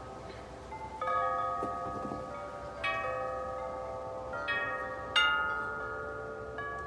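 Wind chimes ringing in gusts of wind, several notes overlapping and fading. Fresh clusters of strikes come about a second in, near three seconds and again around four and a half seconds, with the loudest strike just past five seconds.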